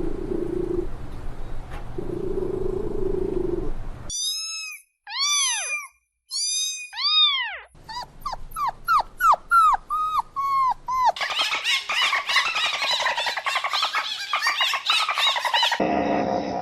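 A series of animal calls in separate short clips: a steady low drone, then high arching squeals, then a quick run of falling whines, then a dense high chatter of many calls at once.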